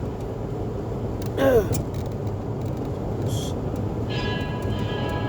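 Steady low rumble of a moving vehicle heard from inside. About a second and a half in, a short loud sound falls in pitch. A brief hiss comes near the middle, and steady high tones come in about four seconds in.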